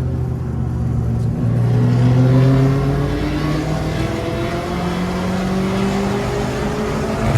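Holden VE SS's 6.0-litre V8 accelerating hard, its engine note rising steadily in pitch; the sound turns rougher and noisier near the end.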